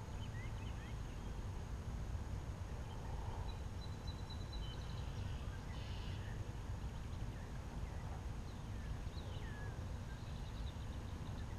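Outdoor ambience by a pond: a steady low rumble with small birds chirping faintly. There are brief rapid high trills about a third of the way in and again near the end.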